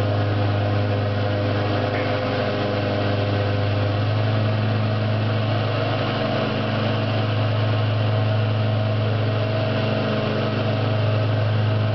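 An engine running steadily at idle: a low, even hum whose tone shifts slightly about four seconds in.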